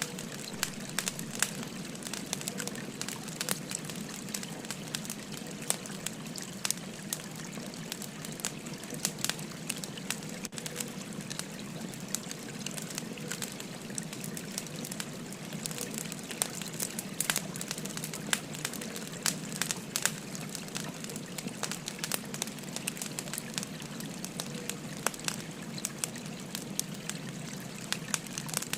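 Wood fire crackling with many small irregular pops and snaps, over the steady babble of a flowing stream.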